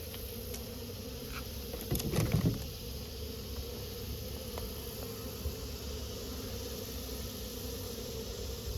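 Honeybees buzzing with a steady hum around the exposed colony. A short burst of knocking and rustling comes about two seconds in.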